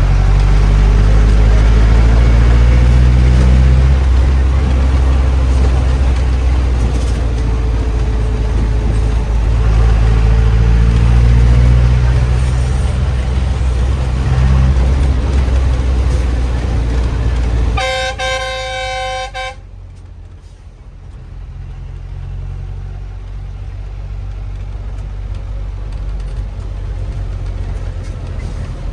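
Bus engine running with a heavy low drone. About two-thirds of the way through, a vehicle horn honks for about a second and a half. The sound then drops abruptly to a much quieter low rumble that slowly grows again.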